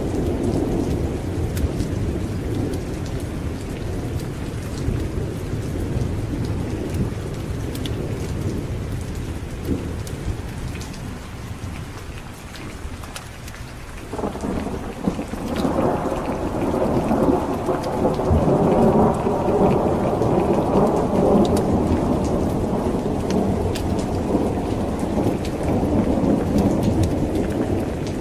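Steady rain with rolling thunder. A long rumble of thunder swells about halfway through, is loudest a few seconds later, then slowly dies away.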